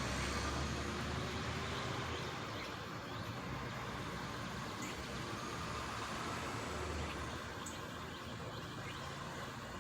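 A truck's engine running low and steady as it pulls away, slowly growing fainter.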